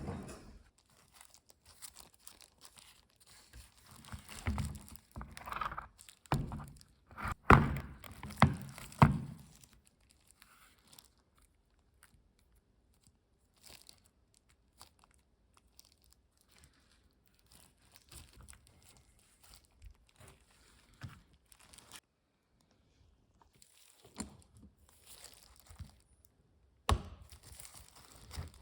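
Intermittent clicks, knocks and clatter of hand tools and engine parts being handled while the top of a Subaru EJ engine is taken apart to reach the hydraulic lifters. There are a few sharper knocks about seven and a half and nine seconds in and again near the end.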